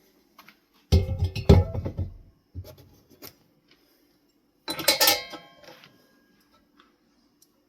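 Metal ceiling-fan parts clattering and clinking as they are handled, in two bouts: a heavy clunk and rattle about a second in, then a ringing metallic clatter about five seconds in.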